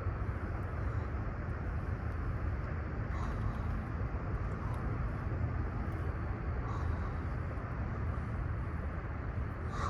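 Steady low outdoor rumble with a few faint, short chirps.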